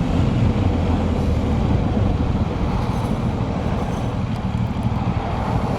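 BMW R1200GS boxer-twin engine running at low speed, with some wind noise on the microphone; it eases off slightly a couple of seconds in as the bike slows.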